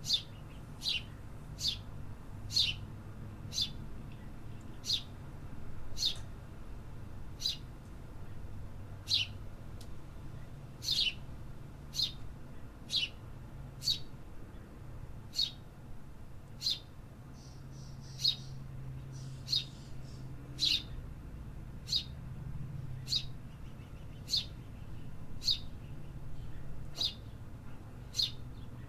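A bird calling in short, sharp, downward-sweeping chirps, repeated about once a second. Fainter chirping joins briefly in the middle, over a low steady background hum.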